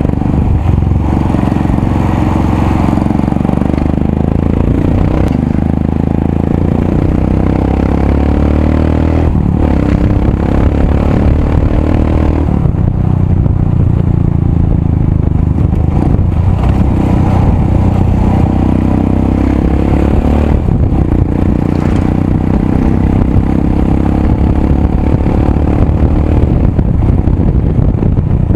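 Royal Enfield Himalayan's single-cylinder engine running hard through a loud aftermarket exhaust while riding, the engine note rising and falling several times with throttle and gear changes. Clatter from the bike over a broken road.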